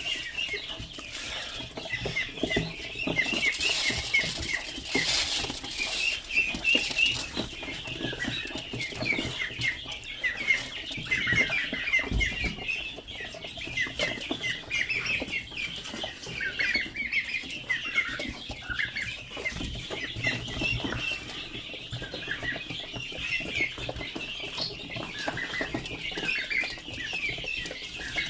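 Pigeons in a loft, wings flapping and scuffling, over a constant chatter of short, high chirps.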